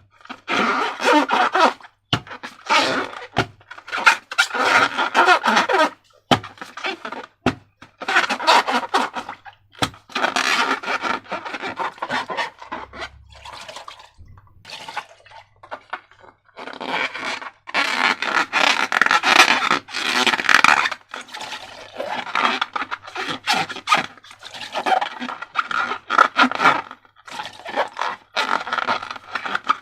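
Slime being worked by hand, wet sticky squelching and scraping in irregular bursts with short pauses and a few clicks.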